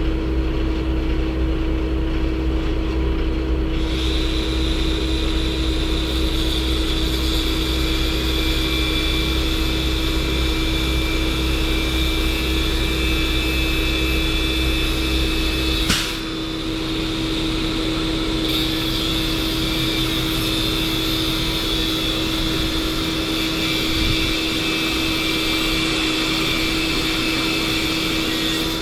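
Steady vehicle running noise with a constant hum. About halfway through there is a single sharp click, after which the deep low rumble drops away.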